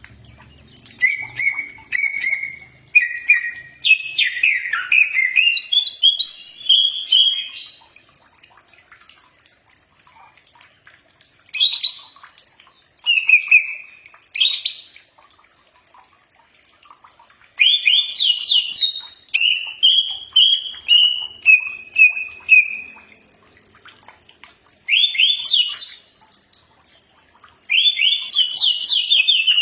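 Cucak ijo (green leafbird) singing in repeated phrases of quick whistled and chattering notes, each phrase lasting one to several seconds with short pauses between them.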